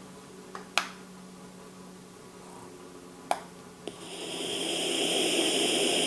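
A few sharp button clicks on a Hatch Go sound machine, then the machine's white-noise hiss fades in over about a second and runs steadily. This is the device coming back on after a reset with its plus and minus buttons.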